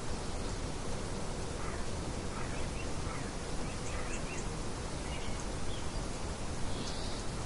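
Steady wind-like rushing noise, with faint short bird chirps scattered through it.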